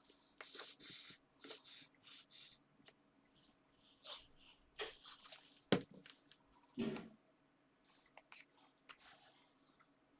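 Paper and card being handled on a craft table: short rustles and slides of paper, then a few light taps, the sharpest a little past halfway.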